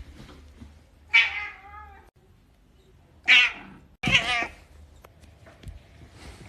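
Domestic cat meowing three times: a longer meow that falls in pitch about a second in, then two shorter meows close together about three and four seconds in.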